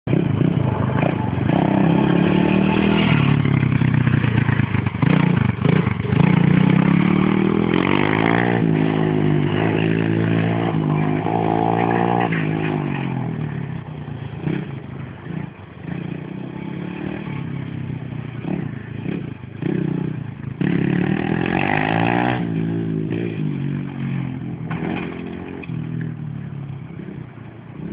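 Dirt bike engine being ridden, revving up and down repeatedly as the throttle is worked. It is loud for the first half, then fainter and more intermittent, with another strong rise in revs about three-quarters through.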